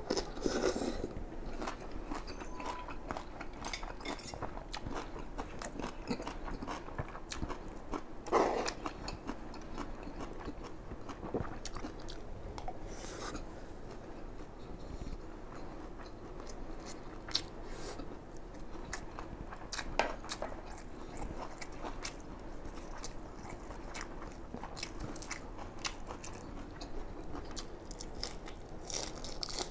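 Close-miked mouth sounds of a man eating: chewing and biting with wet smacks and many small irregular clicks, as he works through kimchi and fried rice, with a crunchy bite of fresh lettuce leaf near the end.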